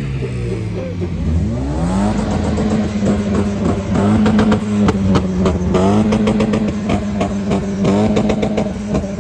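A car engine revving hard. The revs fall away, climb again about two seconds in, then are held flat at high revs with a rapid stuttering crackle, as when bouncing off the rev limiter. The revs drop briefly and snap back up a few times.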